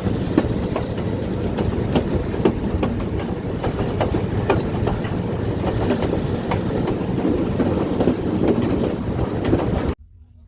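Passenger train running on the rails: a steady low rumble with irregular clatter and knocks from the wheels. It cuts off suddenly near the end.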